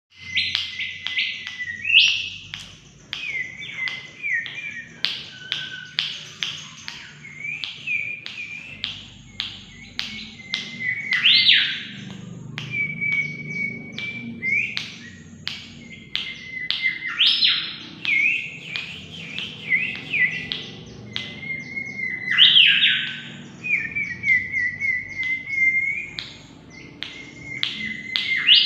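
Mangrove whistler singing without a break: quick phrases of loud whistled notes, sharp chirps and pitch sweeps, repeated over and over.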